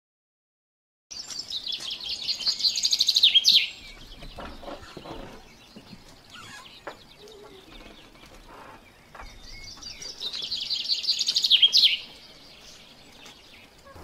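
A songbird singing a rapid high trill that grows louder and ends in a flourish. It sings twice, once about a second in and again about eight seconds later.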